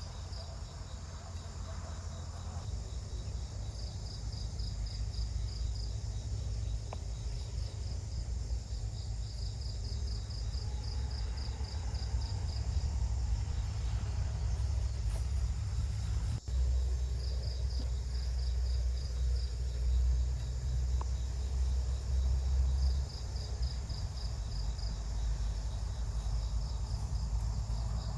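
Insects chirping in rapid pulsed trains, high-pitched, each train lasting a second or two and repeating over and over. Under them runs a steady low rumble, the loudest sound.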